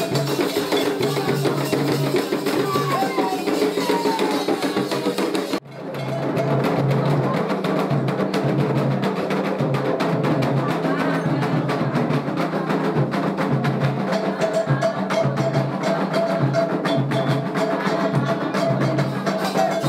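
Candomblé ritual music: a steady rhythm on hand drums and a struck percussion part, with voices singing. The music cuts out abruptly about five and a half seconds in and resumes at once.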